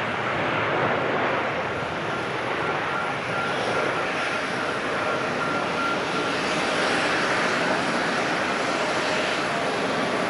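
Passenger jet engines running at high power, a steady even rush of noise, with a faint thin whine for a few seconds in the middle.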